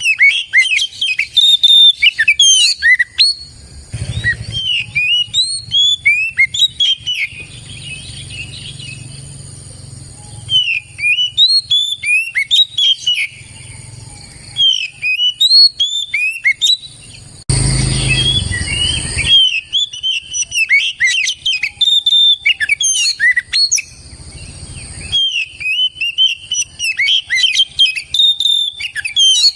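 Oriental magpie-robin singing: phrases of quick, varied whistled notes separated by short pauses. A burst of rushing noise lasts about two seconds a little past halfway.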